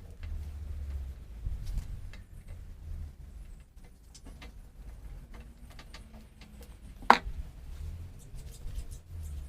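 Scattered small clicks and knocks of hand work on a motorcycle wheel over a low rumble, with one sharp knock about seven seconds in.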